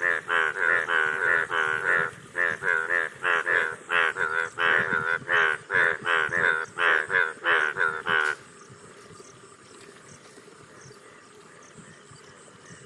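Frogs calling: a rapid series of short, loud croaks, about three a second, that stops abruptly about eight seconds in, leaving only a faint steady background.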